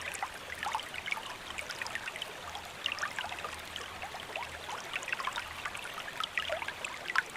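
Rain falling, heard as a dense, irregular patter of drops with trickling water.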